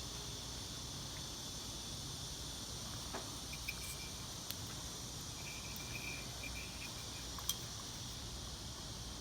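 Quiet steady background: a constant high-pitched chirring hiss over a low hum, with a few faint clicks.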